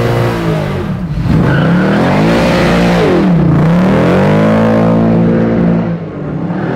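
Custom Jaguar XJ sedan's engine revving hard during a burnout. The revs climb and fall back three times, with drops about a second in, at the middle and near the end.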